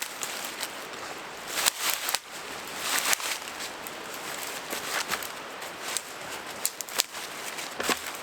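Irregular crunching and rustling in the woods, a few sharp crunches spread over a steady rushing background.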